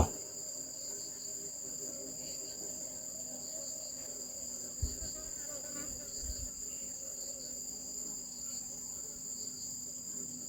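Steady high-pitched chirring of crickets in the background, with a couple of faint low thumps about five and six seconds in.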